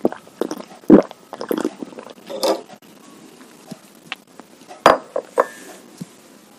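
Spoon and cutlery clinking and knocking against a bowl of meatball soup: a handful of separate sharp taps, the loudest about a second in and again near five seconds.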